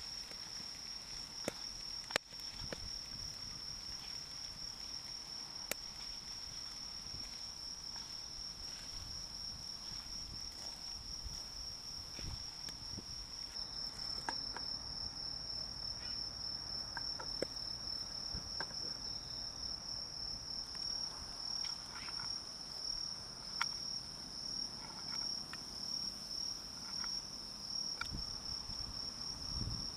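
Insects trilling steadily in one continuous high-pitched note that turns more pulsing about halfway through, with a few faint scattered clicks.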